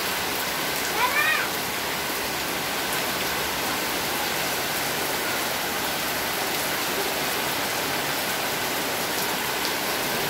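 Steady rain pouring onto a paved yard and foliage. About a second in, one brief high call rises and falls over the rain.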